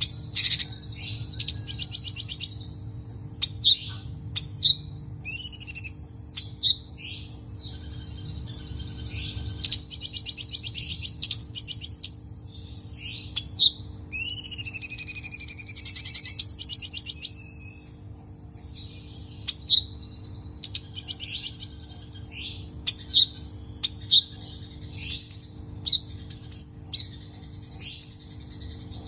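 Songbird called 'cungko kepala abu' (grey-headed cungkok) in Indonesian bird-keeping, singing a fast, varied song of rapid trills, sharp chirps and gliding whistles in quick bursts with short pauses: the jumbled 'konslet' style of song. A steady low hum runs underneath.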